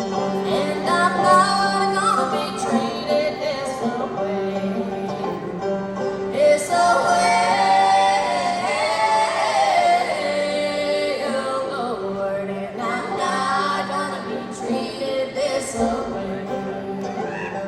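Live band music with a female voice singing over the instruments. A steady low note is held underneath, and the playing swells louder and fuller in the middle.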